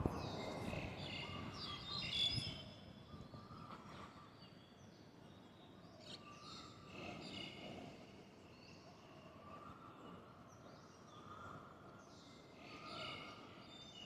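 Several songbirds chirping and calling, faint, with a burst of high chirps in the first couple of seconds and a repeated lower whistled note later on, over a steady background hum.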